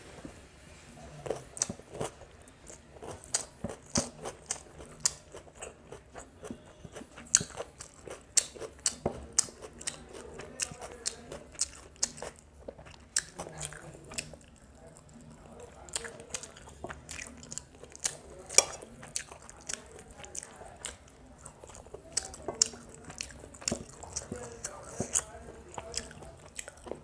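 Close-up sound of a person eating chicken biryani by hand: chewing and biting with frequent sharp mouth clicks and lip smacks, several a second in an irregular rhythm.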